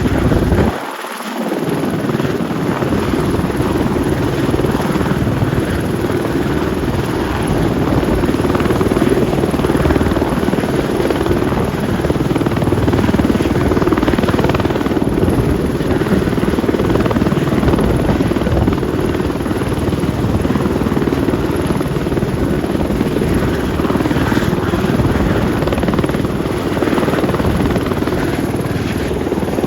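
Turbine helicopter running, a steady, loud mix of turbine whine and rotor noise, with a brief dip in loudness and low end about a second in.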